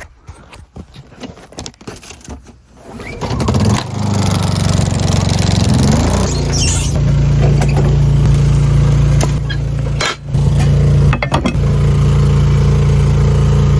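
A small engine starts about three seconds in, rises, and settles into a steady run, with two brief dips near the end.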